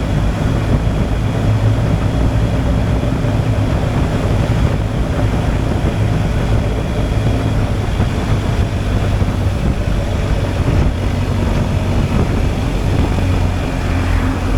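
BMW R 1250 GSA's boxer-twin engine running steadily while riding, with wind rush over the microphone.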